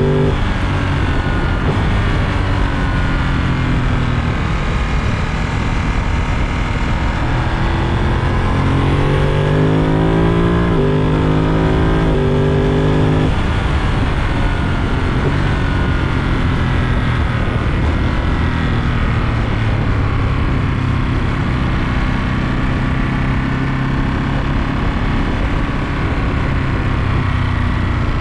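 Ducati Monster 937's L-twin engine under way, accelerating through several quick quickshifter upshifts around the middle: the pitch climbs and snaps down at each gear change. Afterwards it runs at a steadier pitch that slowly falls.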